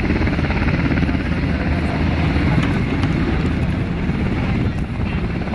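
Sikorsky HH-60G Pave Hawk helicopter's twin turboshaft engines and rotors running steadily at close range, with dense rotor and engine noise that holds an even level throughout.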